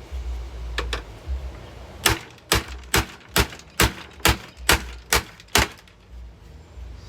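A hammer striking a Hoover vacuum cleaner: two knocks, then a steady run of eight sharp blows about two a second.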